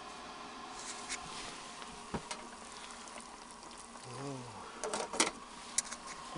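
Light clicks and knocks of small objects being handled, a cluster of them about five seconds in, over a faint steady background hum, with a short murmured 'hmm' from a person just before the cluster.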